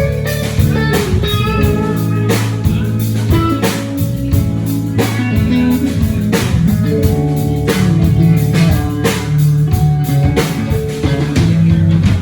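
A live blues-rock band plays an instrumental passage. Guitar lines ring over a steady drum-kit beat, with no singing.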